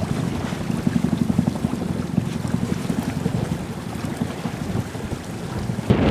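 Wind buffeting the microphone on a heeling sailboat under way, with water rushing past the hull; the noise grows louder and brighter near the end.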